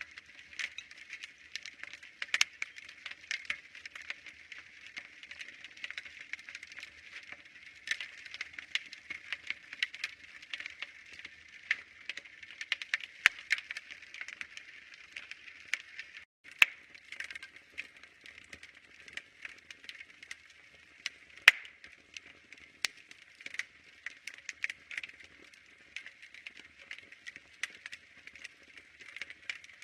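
Wood fire crackling, with a soft hiss under frequent small pops and snaps; one sharper, louder pop comes about two-thirds through. The sound cuts out for a split second just past halfway.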